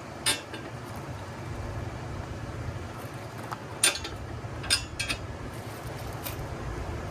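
A few sharp metal clinks and taps from tools or hardware being handled, the loudest about four seconds in, over a steady low rumble.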